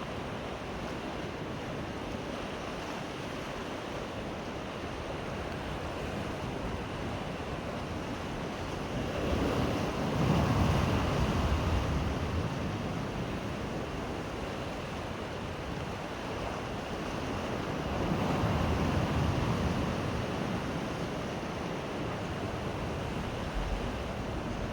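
Sea waves washing onto the shore in a steady rush, with two louder breakers swelling up about ten seconds in and again near eighteen seconds. Wind buffets the microphone.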